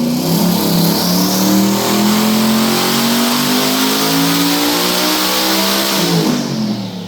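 Twin-turbo 427 LS V8 in a Trans Am making a pull on a hub dyno, its engine note rising steadily for about six seconds. Near the end the throttle closes and the revs fall quickly.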